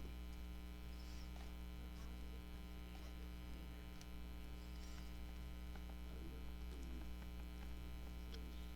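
Steady electrical mains hum on the recording, with a few faint ticks and rustles of hand-sewing a paper journal.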